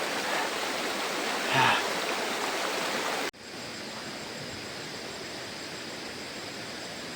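Steady rush of a rocky jungle river's flowing water. About three seconds in it cuts off abruptly, giving way to a quieter steady hiss.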